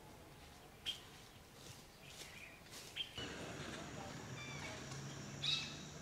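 Outdoor wetland ambience with scattered short, high bird chirps from unseen birds. About three seconds in, the background changes abruptly to a louder steady hiss, with more chirps; the loudest comes near the end.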